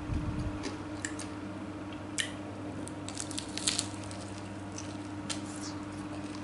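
Close-up eating sounds as tofu is chewed: scattered wet smacks and clicks, with a denser cluster around the middle, over a steady low hum.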